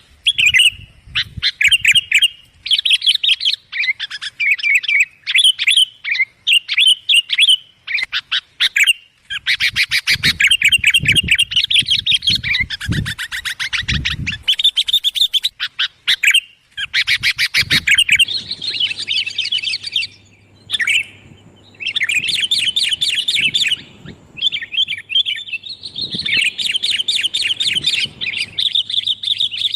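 Sooty-headed bulbuls (kutilang) calling in quick, busy runs of loud, clear chirps, with almost no gaps. In the middle a few low thumps come through, and from a little past halfway a faint low hum lies under the calls.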